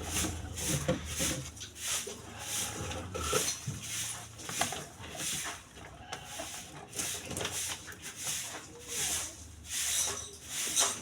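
Rhythmic rubbing strokes, about two a second, over a faint steady low hum.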